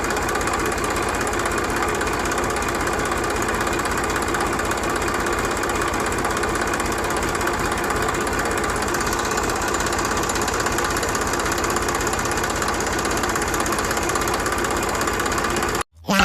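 A small motor on a homemade mini tractor running steadily, then cutting off suddenly near the end.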